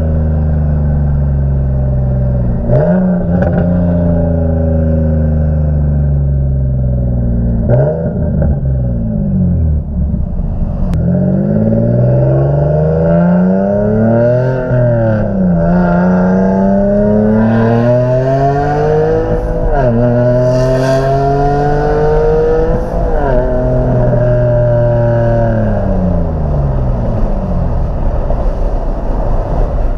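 Single-turbo Infiniti G37's V6 engine under way, its pitch climbing under acceleration and falling back at each shift or lift off the throttle, several times over. A high hiss rides over the engine for several seconds past the middle.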